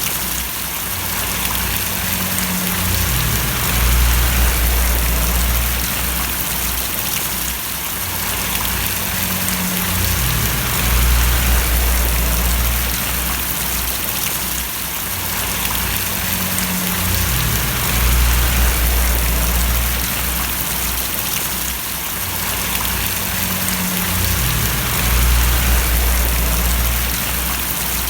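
Steady rain falling, an even hiss of drops on surfaces. Beneath it a low hum rises and falls in a regular cycle about every seven seconds.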